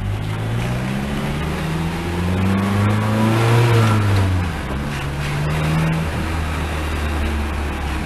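Car engine heard from inside the cabin, pulling in gear with its note rising steadily for about three and a half seconds, then dropping as the throttle is lifted and settling to a lower, steady note.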